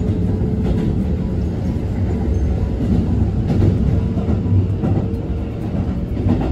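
Electric limited express train running, heard from inside the passenger car: a steady low rumble of wheels on rails with a faint steady hum and occasional faint clicks.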